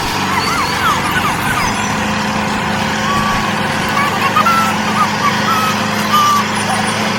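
Steady mechanical drone of a motor running at an even pitch, with short high chirps scattered over it.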